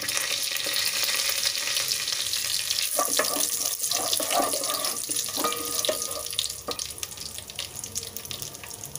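Fresh mint leaves sizzling and spitting in hot oil and ghee with whole spices in an aluminium pot, stirred with a wooden spatula. The crackling is loudest in the first seconds, with a few short pitched sounds between about three and seven seconds in.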